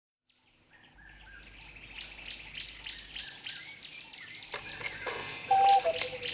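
Birds chirping, fading in from silence and growing steadily louder. About four and a half seconds in, more sound joins, with a brief steady tone near the end.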